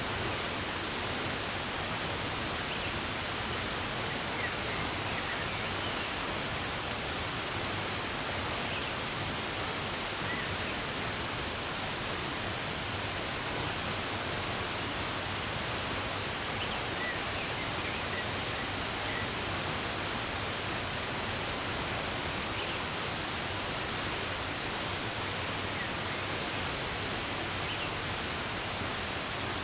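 Running water rushing steadily, with a few faint bird chirps now and then.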